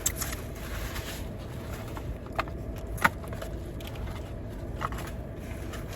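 A few short, sharp clicks and crackles, four or so, over a steady low rumble.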